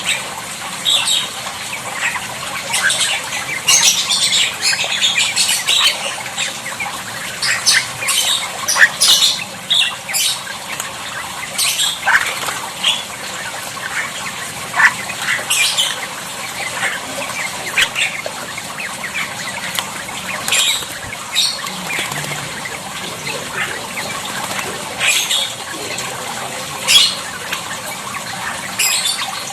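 Jalak starlings calling: many short, sharp, high-pitched squawks and chatters, thick and repeated throughout over a steady background hiss.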